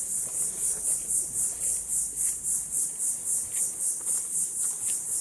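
Insects calling in a high-pitched, steadily pulsing chorus, about four pulses a second.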